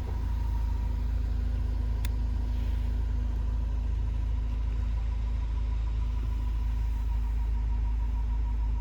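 Honda Torneo SiR's 2.0-litre four-cylinder engine idling through an aftermarket muffler: a steady low rumble, with one sharp click about two seconds in.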